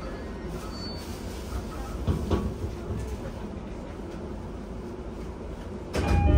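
Steady low hum inside a stopped JR East E231-1000 series commuter car, with a couple of faint clicks. About six seconds in, a much louder sound with several steady tones starts suddenly.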